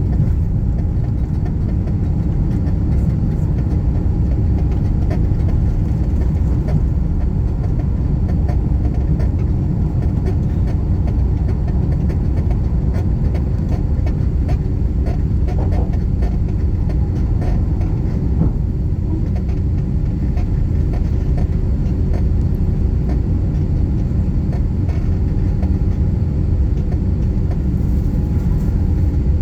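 Airbus A350-900 cabin noise: a steady, loud, low rumble of the Rolls-Royce Trent XWB engines and airflow heard from inside the cabin, with a few faint steady tones above it.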